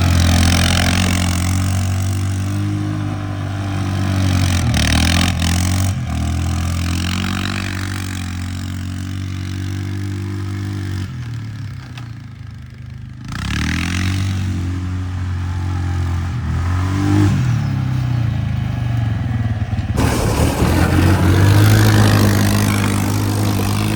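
Small motorbike engine running and revving, its pitch rising and falling as the throttle changes. It eases off for a couple of seconds about halfway through, then picks up again.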